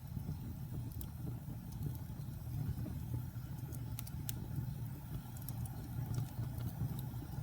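Wood fire burning in a fireplace: a steady low rumble of the flames with scattered faint crackles, and a couple of sharper pops about four seconds in.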